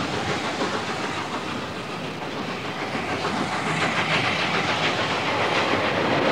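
Train running along the line, a steady rushing noise with the wheels clattering over the rail joints.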